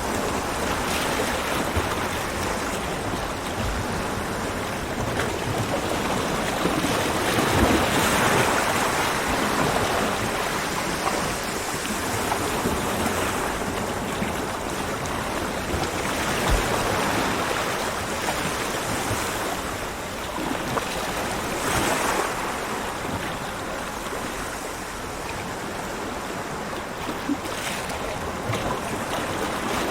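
Ocean waves breaking and washing on a beach in a continuous surf, swelling louder every few seconds.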